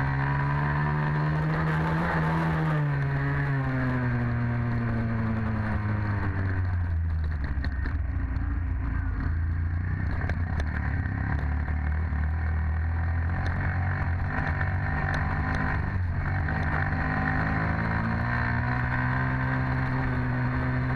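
Dirt bike engine running: the revs climb for the first two seconds or so and ease off, run low and steady through the middle, then climb again near the end.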